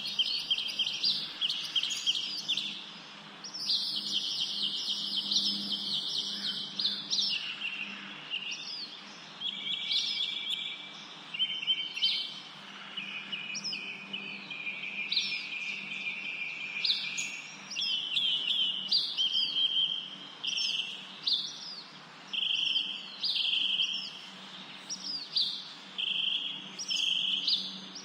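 Songbirds singing continuously, with rapid trills and short repeated high chirps overlapping one another.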